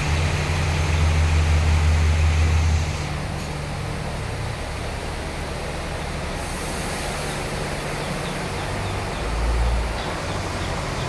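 Sawmill machinery running with a steady low engine hum under a broad mechanical noise. The hum is louder for the first three seconds, then settles, and swells briefly near the end.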